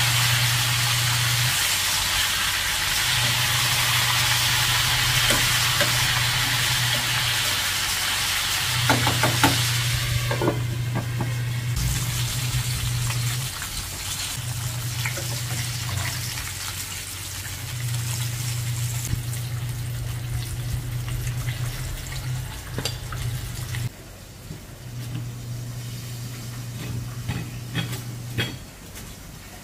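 Chicken pieces frying in hot oil in a pan, a steady sizzle with a few clicks of stainless tongs turning them. Under it a low hum cuts in and out every few seconds.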